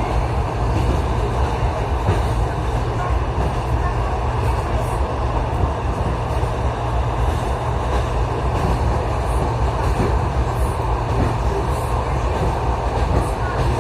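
Electric commuter train running steadily, heard from inside the carriage: an even low rumble with wheel and running noise.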